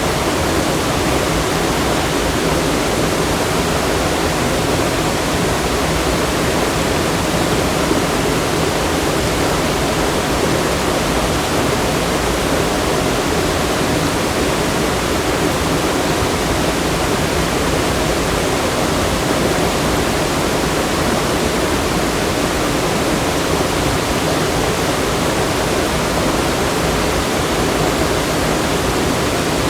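Loud, steady rush of fast-flowing water, an even roar with no breaks or changes.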